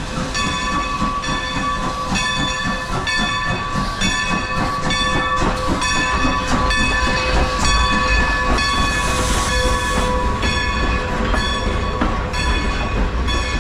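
Passenger train arriving at the platform, its locomotive running with a low rumble and a steady, rapidly repeated ringing of metallic tones. A burst of hiss comes about nine seconds in.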